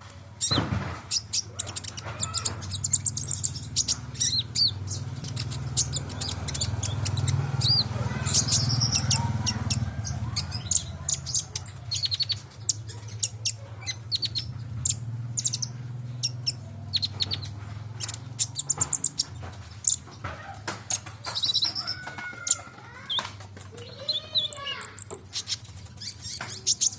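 Sunbird singing busily: a long run of quick, sharp, high-pitched chirps and ticking notes with a few lower sliding calls near the end, over a steady low hum.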